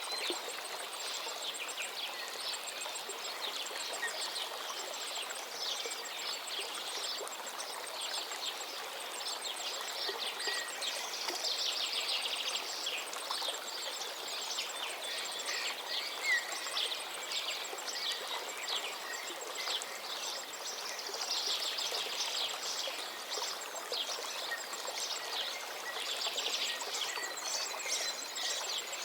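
Forest river flowing steadily, with several songbirds singing overlapping trilled and chirping phrases throughout.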